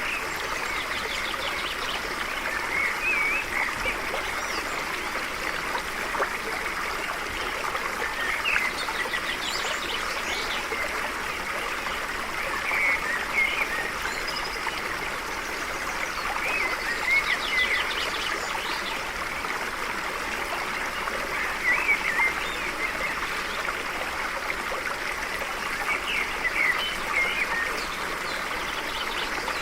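Stream flowing steadily, with short warbling bird calls repeating every four or five seconds.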